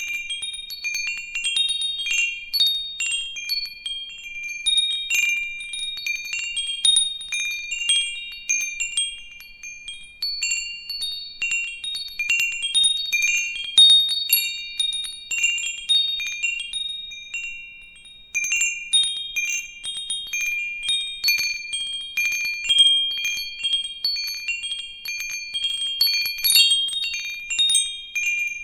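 Wind chimes ringing, metal tubes struck irregularly by one another in the breeze, several high bright notes overlapping and fading out, with a short lull about two-thirds of the way through before the strikes pick up again.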